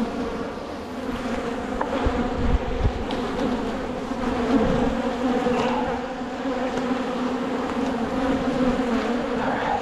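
Swarm of honeybees buzzing loudly and steadily around an open hive, agitated and defending it.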